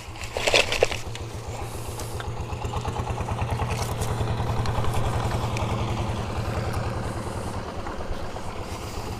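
A small engine running with a rapid, even thumping that grows louder over the first few seconds and then eases off a little. There is a brief clatter just before it builds.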